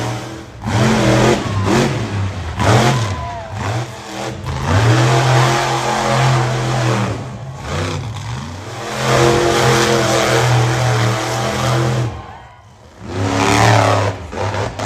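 Monster truck engine revving hard in repeated bursts, its pitch climbing and falling with the throttle. It drops off briefly about twelve seconds in, then revs up again.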